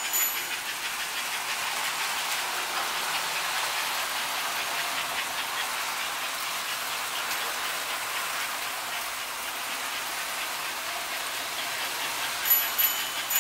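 American Flyer S gauge model train running on the layout: a steady hiss and rattle of wheels and motor on the track. Near the end come a few short, high-pitched squeaks.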